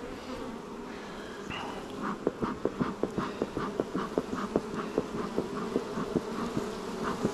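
Swarm of agitated honeybees buzzing around an open hive, a steady hum. From about two seconds in, rapid irregular ticks sound over it, several a second.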